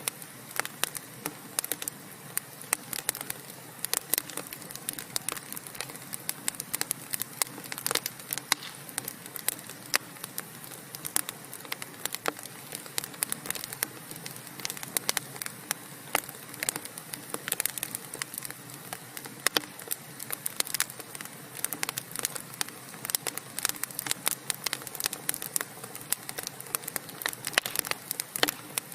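Wood fire in a fireplace crackling: dense, irregular sharp pops and snaps over a steady low hiss of burning logs.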